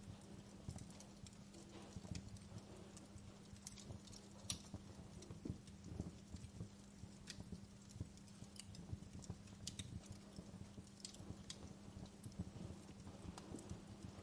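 Wood fire burning in a fireplace, crackling with irregular sharp snaps and pops over a faint, steady low hum.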